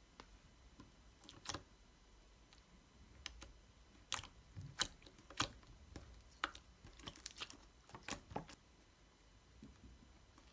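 Scattered soft clicks and small taps at irregular intervals, about a dozen in all, the loudest a little past the middle, over a faint low hum.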